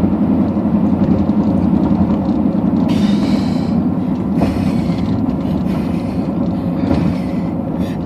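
Road and engine rumble inside a moving car's cabin, steady and low, with a few brief knocks from bumps in the road.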